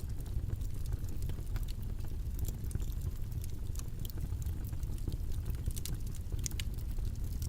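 Steady, low-pitched noise ambience with scattered small crackles and clicks throughout.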